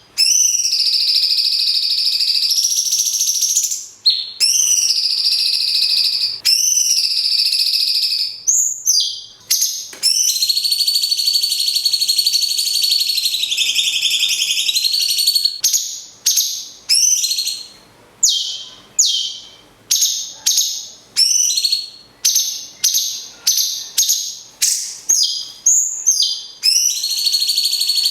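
A lovebird and a cucak cungkok singing in turn. There are long, rapid, high chattering trills of several seconds each, like a lovebird's ngekek, and in the second half a string of short, downward-sweeping whistled notes, about one a second.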